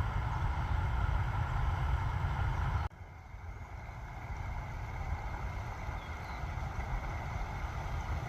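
Steady rush of a small creek waterfall, with a heavy low rumble, and a few faint bird chirps. The sound drops abruptly about three seconds in, then gradually builds back up.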